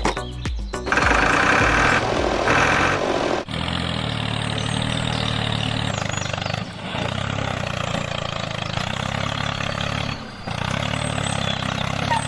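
Engine running steadily at a low, even pitch, dipping briefly twice, after a louder rushing noise in the first few seconds.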